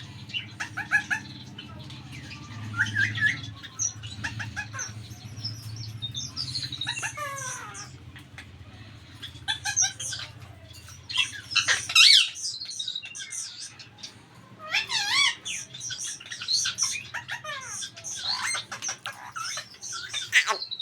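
A flock of small aviary parrots chirping and squawking constantly, with many quick up-and-down calls overlapping. A low steady hum runs underneath and stops about halfway through.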